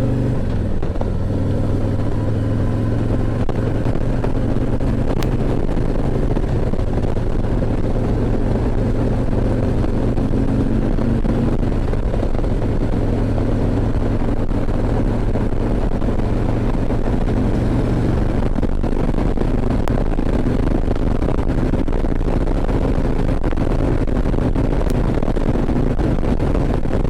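Harley-Davidson V-twin motorcycle engine running steadily at cruising speed, with wind rush and road noise on a helmet microphone.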